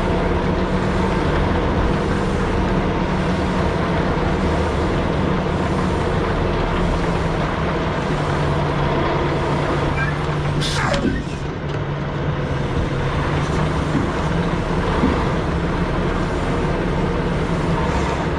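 Semi-truck's diesel engine running steadily on the road, heard from inside the cab; its hum drops to a lower pitch about eight seconds in. A brief falling whoosh about eleven seconds in.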